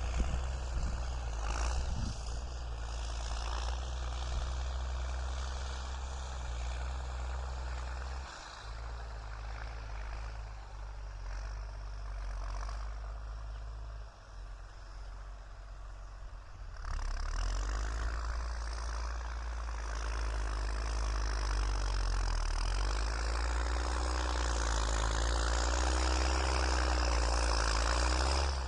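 New Holland TS6.125 tractor's diesel engine running while pushing soil. It steps down in pitch and level about a quarter of the way in, then picks up and runs harder past the middle.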